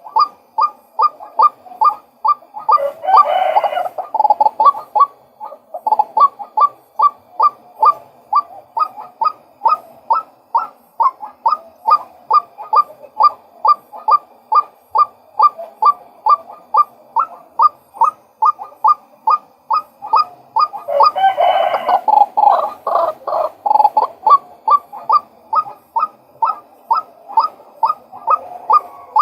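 Male white-breasted waterhen calling: a steady, monotonous series of 'kwak' notes, about two to three a second. There are two stretches of harsher, denser calling, one a few seconds in and one about three-quarters of the way through.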